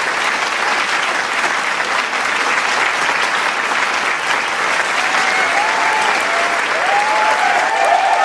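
Large crowd applauding steadily in dense clapping, with voices cheering over it from about five seconds in.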